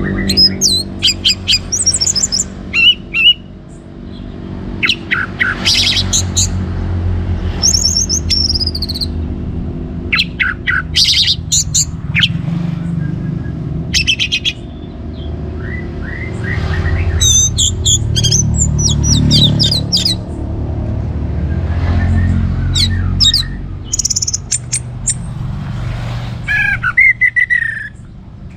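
Orange-headed thrush singing: loud bursts of rapid, varied high-pitched phrases every second or two, over a steady low rumble.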